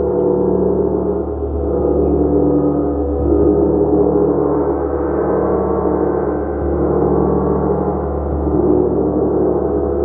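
Large gong played continuously, a dense, sustained shimmering drone of many overlapping tones that swells and ebbs gently without a break.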